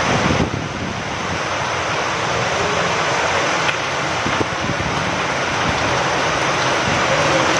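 Steady rain falling, with wind, as an even hiss; it eases briefly about half a second in, then builds back, with a couple of faint taps in the middle.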